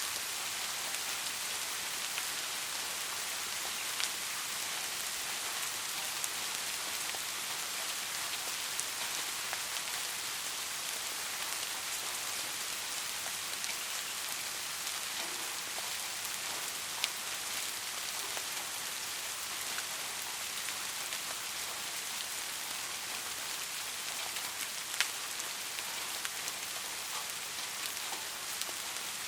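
Steady rain falling, a constant hiss with individual drops ticking sharply through it; a few louder drop hits stand out, around four, seventeen and twenty-five seconds in. No thunder.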